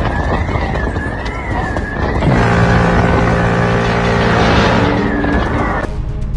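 Emergency vehicle siren wailing, rising and falling about every 0.7 s, over traffic noise. About two seconds in, a loud steady blaring tone joins it, and both cut off abruptly near the end.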